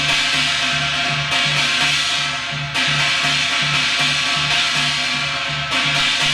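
Yanggojang playing of the Gyeongsang jajinmori shaman rhythm at a fast tempo: a drum struck by the left hand about four times a second under the continuous bright ringing of a brass gong struck by the right hand.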